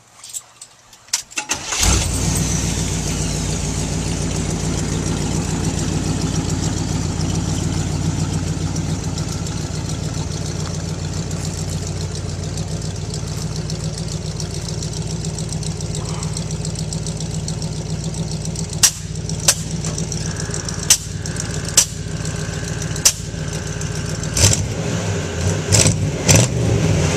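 The 1955 Chevy hot rod pickup's engine is cranked and catches about two seconds in, then idles steadily. In the last third there are several sharp clicks, and near the end a few light blips of the throttle.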